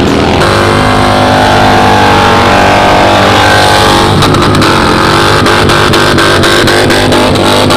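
Motorcycle engine revving hard and held at high revs, its pitch dipping and climbing again about four seconds in.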